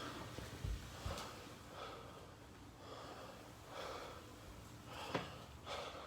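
A person breathing audibly close to the microphone: short, heavy breaths about once a second.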